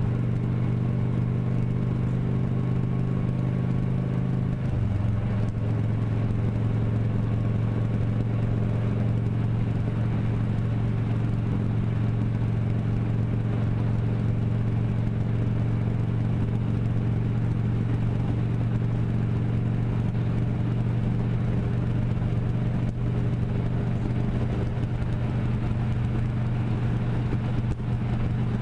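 Motorcycle engine running steadily while riding, its note changing once about five seconds in and then holding even.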